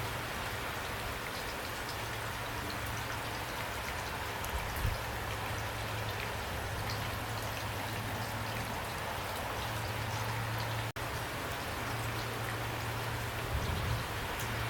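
Steady heavy rain: a dense, even hiss with the patter of individual drops and a couple of soft low thuds. The sound cuts out for an instant about eleven seconds in.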